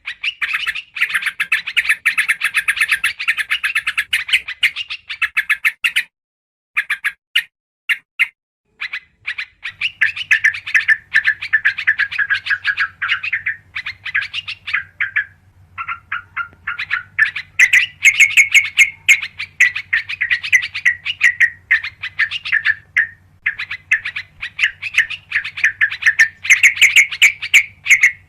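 Yellow-vented bulbuls (trucukan) chattering: dense runs of rapid, sharp notes, many per second, broken by a few short pauses. A faint low hum comes in about a third of the way through.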